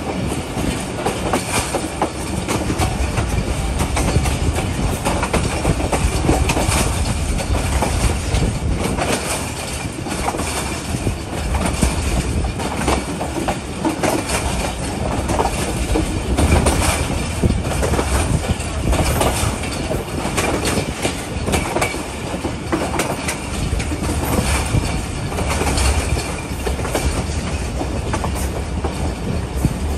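Passenger train running along the track: a steady rumble with a dense, irregular clatter of wheels over the rail joints.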